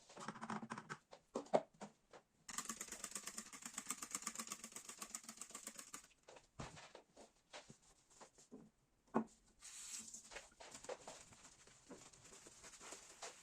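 Household handling noises: scattered light clicks and knocks, with a few seconds of rapid rasping, like scrubbing or rubbing, starting about two and a half seconds in and stopping about six seconds in.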